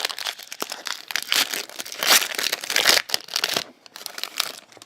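Crinkling and tearing of a trading card pack's wrapper as it is torn open and handled, dying down about three and a half seconds in.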